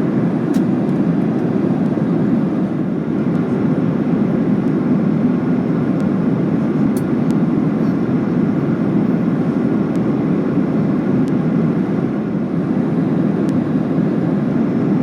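Steady cabin noise inside a Boeing 737-800 in flight: the deep, even rush of its CFM56 engines and airflow past the fuselage, unchanging throughout.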